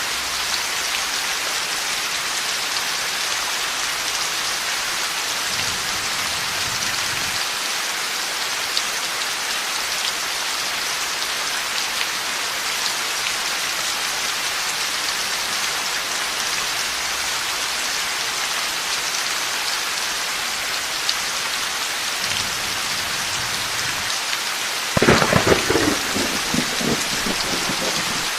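Heavy rain falling steadily in a thunderstorm, with faint low rumbles of thunder twice. Near the end a sudden loud crack of thunder rolls on for a few seconds.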